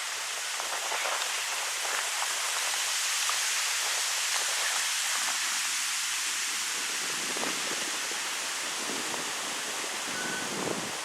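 Wind blowing through birch trees, leaves rustling in a steady hiss that swells a little midway and then eases.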